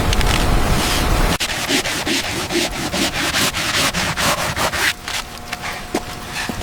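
Rapid back-and-forth rubbing strokes on a surface, about three or four a second, starting about a second and a half in and easing off near the end. A low rumble fills the first second and a half.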